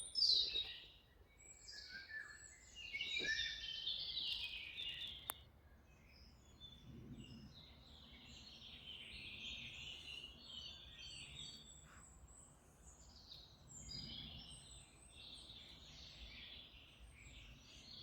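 Small songbirds chirping and singing, several voices overlapping. Close, louder bursts of song come in the first few seconds, then give way to a softer, steady chorus of chirps.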